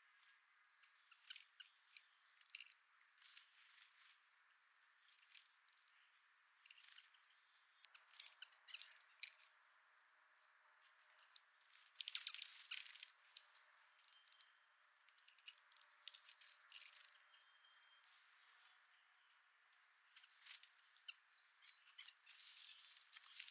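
Faint scattered clicks and taps from small birds at a seed feeder, loudest in a cluster about twelve seconds in, with two brief faint high chirps in the second half.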